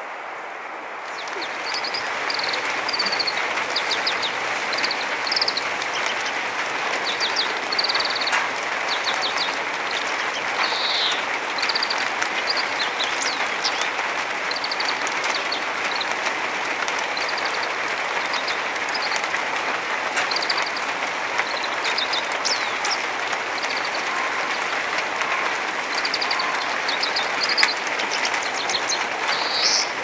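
Small birds calling over and over, short high chirps and trills, above a steady rushing noise that sets in about a second in.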